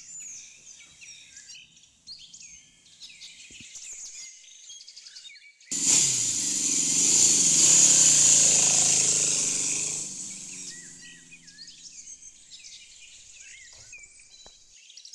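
Birds chirping and singing. A loud rushing noise starts suddenly about six seconds in and fades out about four seconds later.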